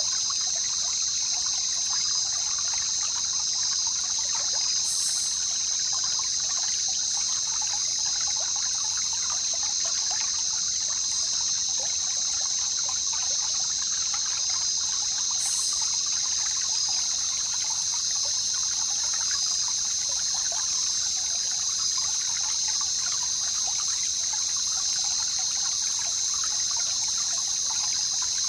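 Jungle river water trickling and babbling, with a steady high-pitched buzz over it.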